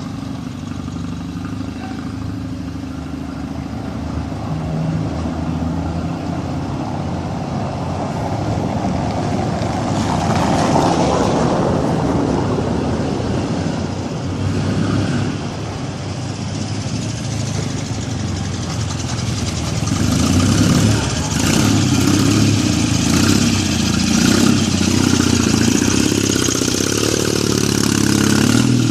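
1937 Zündapp KS600's flat-twin boxer engine running, steady at first, then revved and pulling harder, louder over the last third.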